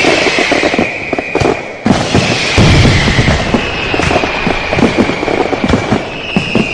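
Fireworks going off: dense crackling and many sharp pops, a heavier bang about two seconds in followed by low rumbling booms, and whistles that slowly fall in pitch.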